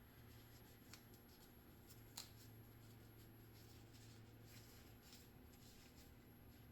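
Near silence: room tone with a low steady hum, faint handling rustle and two light clicks, about one and two seconds in.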